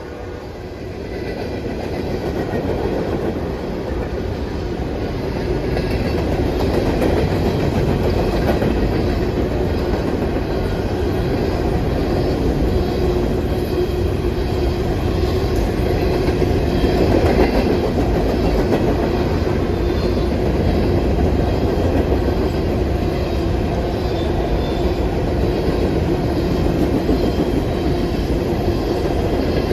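Train rolling past close by, its railcars' wheels rumbling and clacking on the rails; the sound grows louder over the first several seconds and then holds steady.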